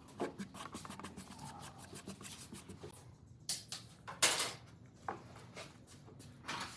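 A run of light clicks and taps, with a few louder short scraping or brushing noises about three and a half, four and a half and six and a half seconds in.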